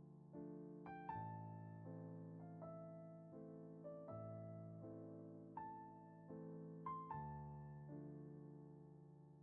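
Soft, slow solo piano music: single notes and gentle chords struck about once a second, each ringing on and fading away.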